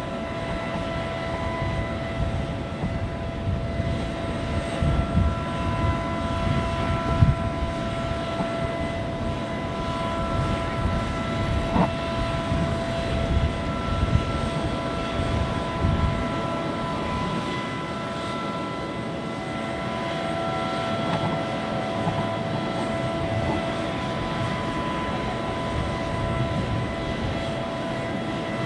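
Private jet's turbines idling on the tarmac: a steady whine of several held tones over a low, gusty rumble that eases after about sixteen seconds.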